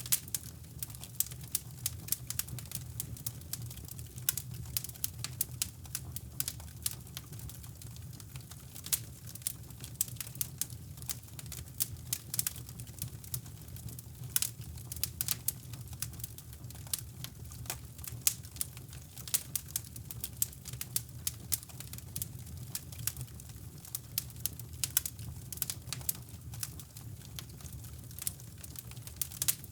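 Wood fire crackling in a fireplace, with many irregular sharp pops and snaps over a steady low brown-noise rumble.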